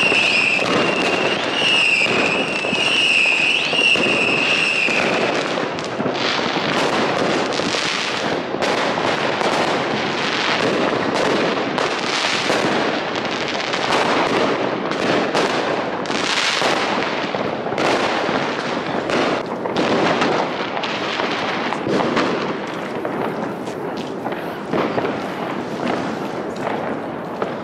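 Fireworks going off all around: a steady, crowded crackle of firecracker and rocket bangs, overlapping with no pause. A high warbling whistle sounds over the bangs for about the first five seconds, then stops.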